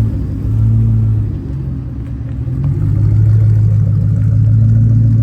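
Ford Mustang V8's exhaust rumbling at low speed as the car rolls in: a deep steady drone that eases briefly and swells again about three seconds in.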